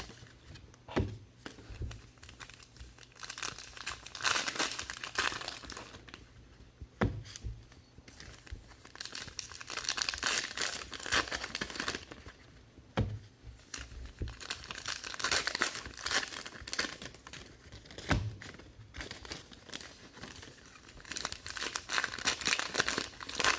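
Trading-card packaging and plastic wrappers crinkling as they are handled, in repeated bouts, with a few sharp knocks on the table.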